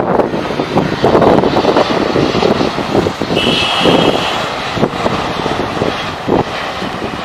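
Airliner engines running as a plane passes at the airport, mixed with wind buffeting the microphone. A brief high tone sounds about three and a half seconds in.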